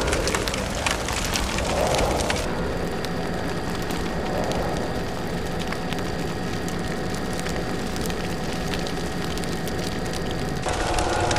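Wildfire burning: many sharp crackles and pops over a steady rushing noise, changing abruptly twice.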